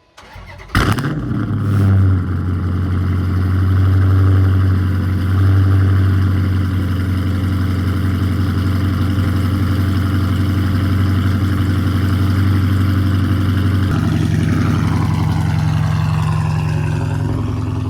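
Dodge Challenger's Hemi V8 cold start: it cranks and catches about a second in, flares up, then settles into a loud, fast cold idle. About 14 seconds in, the idle steps down to a lower, steadier note.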